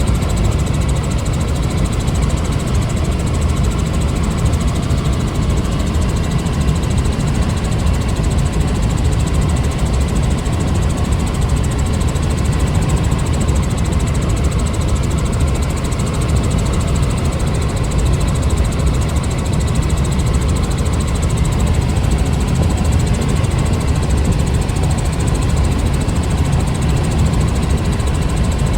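A loud, steady engine drone, heaviest in the low end, with a faint high whine and no change in pitch.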